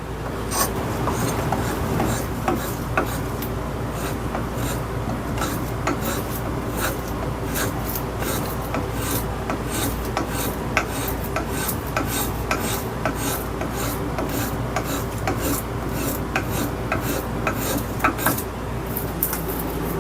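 Metal-bodied spokeshave shaving a black locust hammer handle, with repeated scraping strokes one after another.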